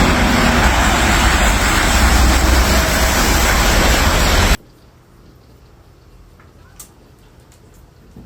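Loud, steady rushing noise with a deep rumble underneath. It cuts off abruptly about four and a half seconds in, leaving a quiet background with a few faint clicks.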